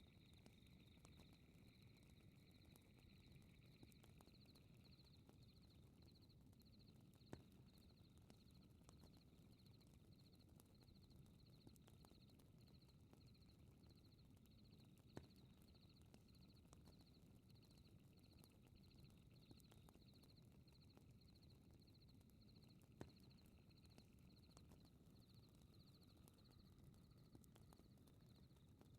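Faint night ambience: insects chirping steadily in a slow regular pulse, over a low rumble of a fire with a sharp single crackle about every eight seconds.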